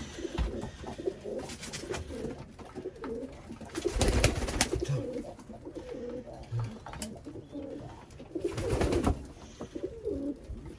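Domestic pigeons cooing in a loft, with a few louder rustling bursts about four and nine seconds in.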